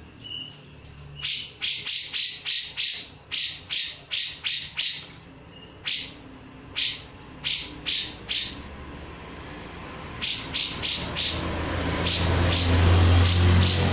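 Grey-cheeked bulbul (cucak jenggot) calling in quick runs of short, sharp, high-pitched notes, with brief pauses between runs. A low rumble builds near the end.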